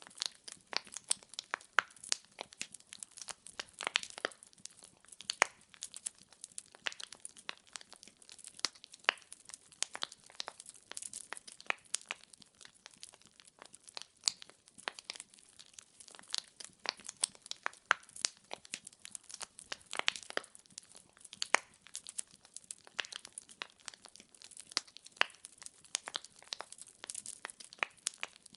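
Burning firewood crackling: many irregular sharp pops and snaps, several a second, over a faint hiss.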